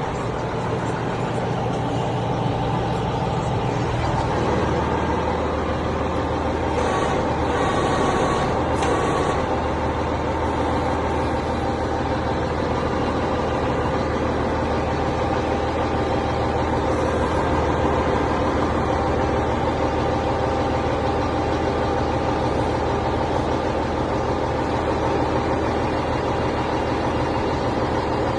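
Mack E7 mechanical inline-six diesel engine of a 2002 Mack RD truck running steadily, its note shifting about four seconds in. A few short hisses come around seven to nine seconds in.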